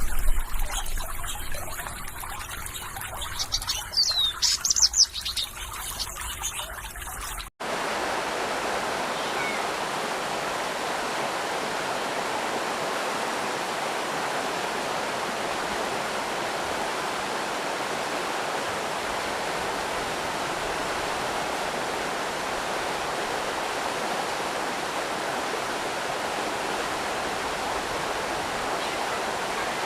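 Water trickling, with a few short bird chirps in the first seconds; then, after a sudden cut about seven seconds in, a steady, even rush of flowing water from a stream or small waterfall.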